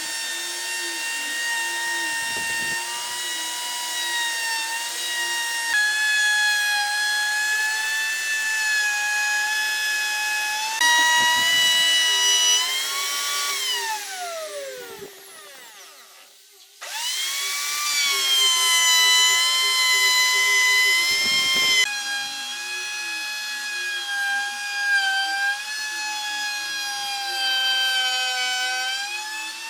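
High-speed electric power tool motor running with a steady high whine, its pitch sagging briefly now and then as it takes load. About thirteen seconds in it winds down with a falling pitch and stops, then starts up again a few seconds later.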